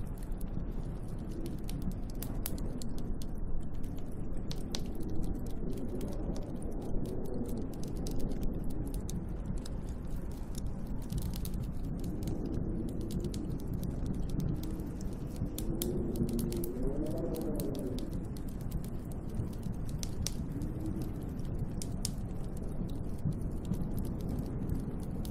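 Snowstorm wind howling around a hut in gusts that rise and fall in pitch, the strongest gust about two-thirds of the way through, over a steady low rush. Scattered light ticks of blown snow strike the hut.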